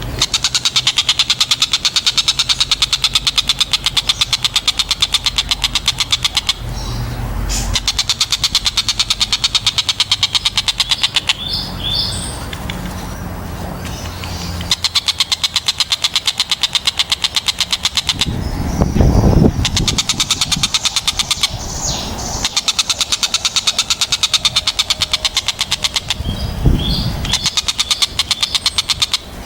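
Tengkek buto kingfisher giving long, fast rattling trills, each run lasting several seconds, repeated after short pauses with a few sharp single notes between them. A brief low rumble comes twice, around two-thirds of the way in and near the end.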